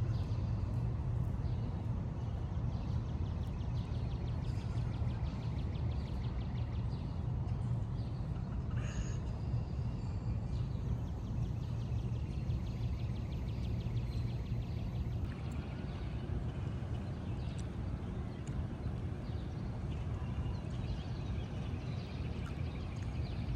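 City ambience on a walk: a steady low rumble of traffic, with a short, higher sound about nine seconds in.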